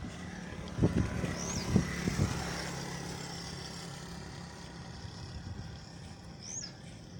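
A motor vehicle's engine running steadily and slowly fading away, with a few sharp knocks about one and two seconds in.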